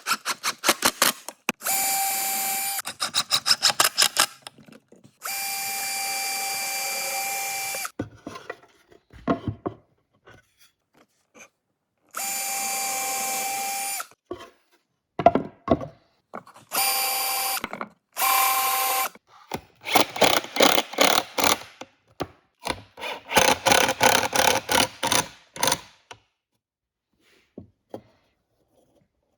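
Power drill running in repeated bursts, some held steady for two to three seconds and others pulsed rapidly on the trigger. Short knocks and gaps fall between the bursts. This is typical of screws being driven or pilot holes drilled during drawer assembly.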